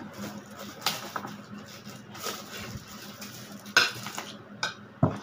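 Plates and cutlery clinking and scraping as food is served and eaten, with a few sharp clinks; the loudest comes a little under four seconds in.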